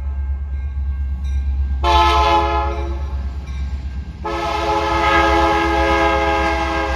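Train horn sounding a chord of several steady tones: a short blast about two seconds in, then a long blast from about four seconds in, over a steady low rumble.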